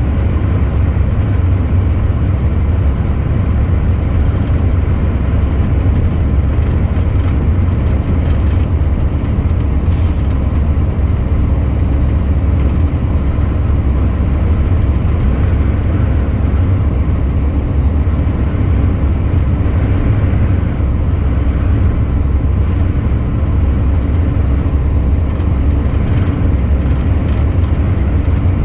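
Truck driving at a steady speed, its engine and road noise making an even, unbroken low rumble.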